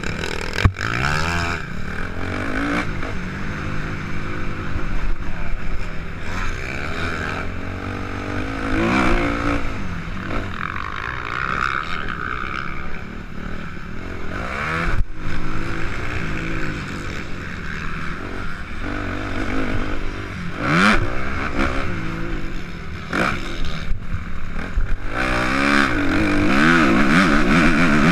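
Suzuki RM-Z 250 motocross bike's four-stroke single-cylinder engine revving up and falling back again and again through the gears on a dirt track, with a couple of sharp knocks and the engine at its loudest near the end.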